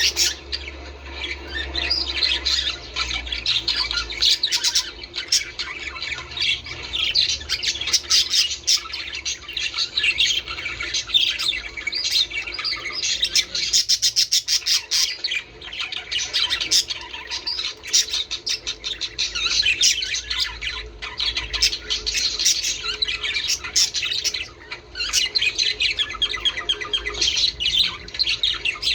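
Several budgerigars chattering continuously: a dense stream of quick chirps and warbles with sharp squawks mixed in.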